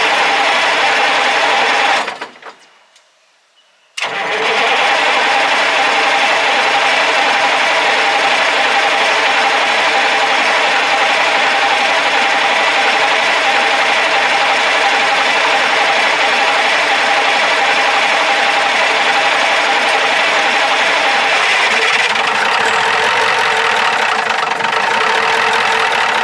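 Cummins 903 V8 diesel engine of a Ford LNT 9000 truck running steadily, just brought back to life after sitting for years. The sound cuts out about two seconds in and comes back suddenly two seconds later.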